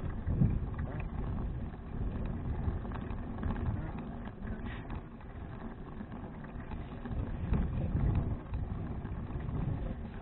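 Low, uneven rumble of wind and road noise on an action camera's microphone while riding a touring bicycle, swelling and fading.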